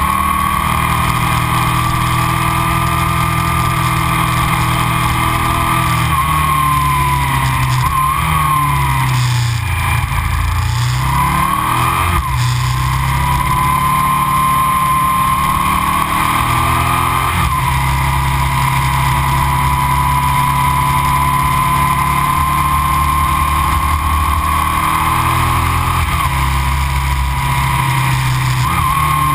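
Aprilia RSV 1000 (2000) 60-degree V-twin engine with Arrow silencers, heard from on the bike while riding: a steady exhaust note whose revs fall and then climb again about ten seconds in, with short breaks in the note later on.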